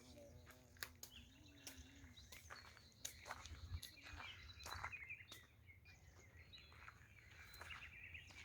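Faint birdsong: small birds chirping and twittering in short, quick phrases, with scattered sharp clicks.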